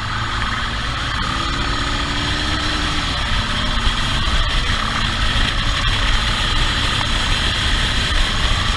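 Motorcycle engine running hard during a pursuit, its pitch rising and falling as the throttle changes.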